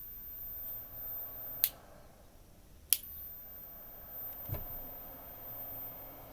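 Two sharp switch clicks about a second apart, then a soft low thump, as a computer power supply wired to a car CD player is switched on.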